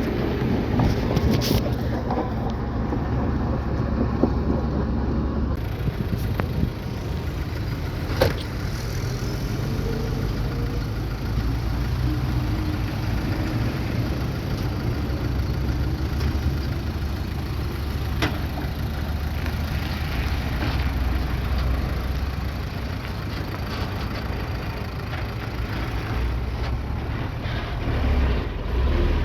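Bulldozer engine running steadily under load, a continuous low rumble, with a sharp knock about 8 seconds in and another about 18 seconds in.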